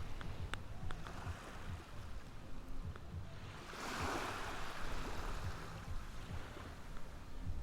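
Ocean waves washing ashore, with one wave surging up and hissing about halfway through over a steady low rumble of surf.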